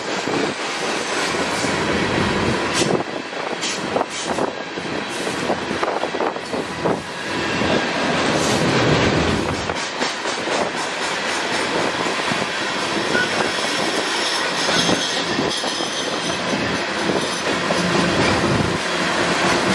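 Open-top hopper cars of a freight train rolling past at close range: a continuous rumble of steel wheels on rail, with repeated sharp clicks as the wheels cross rail joints.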